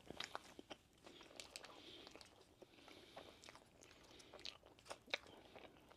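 Faint chewing and biting of a cream puff pastry, with small scattered mouth clicks.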